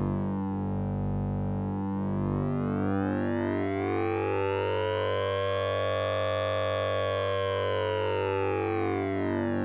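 Orange Vocoder synthesizer playing an oscillator-sync and ring-modulated tone: a steady low buzzy drone under a sweep that slowly rises, peaks about six seconds in, then falls again, like a slow siren.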